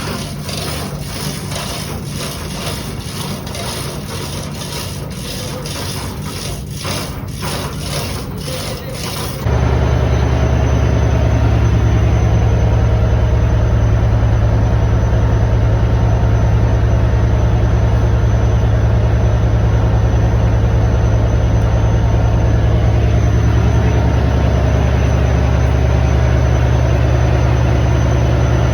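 Noisy clatter of knocks and rubbing, then about nine seconds in a sudden change to ship's engine-room machinery running with a loud, steady low hum.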